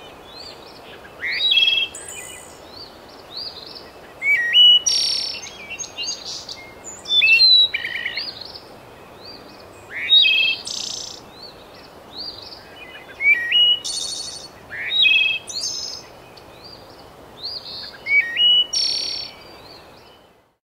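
Birds chirping and singing, with short high calls and rising notes repeated every second or two over a steady background hiss. The sound stops just before the end.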